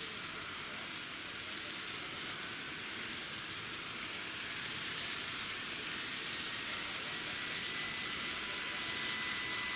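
N-gauge model train running on the track: a steady rolling hiss of wheels on rail that slowly grows louder, with a faint motor whine coming in near the end.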